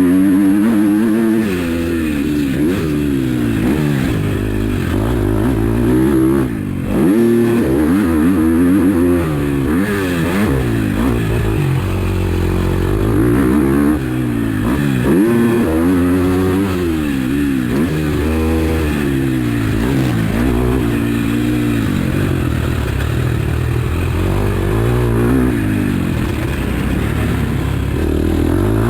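KTM 250 SX-F single-cylinder four-stroke motocross bike ridden hard on track, its engine revving up and falling back again and again as the rider works the throttle and gears. The throttle shuts briefly about six and a half seconds in, then the engine climbs again.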